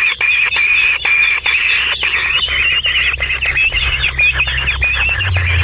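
Dense outdoor chorus of chirping birds and a regularly pulsing insect trill, about five pulses a second, over a low hum that grows louder near the end.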